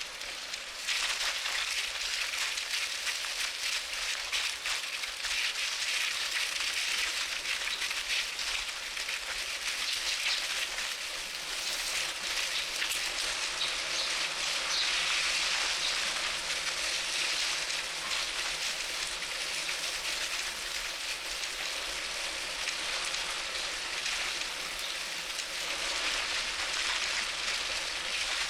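Steady hiss of bicycle tyres rolling on pavement, with wind on the action camera's microphone.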